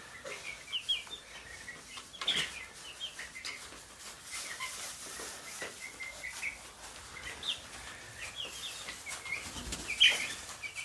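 Baby chicks peeping: a steady stream of short, high chirps. A sharp knock sounds about two seconds in and a louder one near the end.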